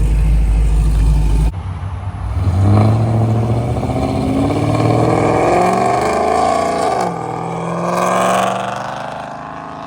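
Car engine idling with a deep, steady rumble; after an abrupt cut about a second and a half in, a car engine revs, its pitch climbing, dropping back about seven seconds in, climbing again and then falling away.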